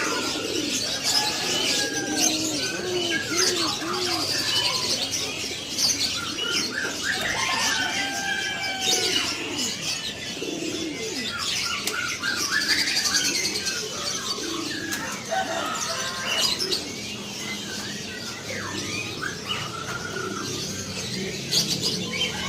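Many caged birds calling at once: low, repeated cooing of doves under a dense, continuous mix of chirps and whistles from small songbirds.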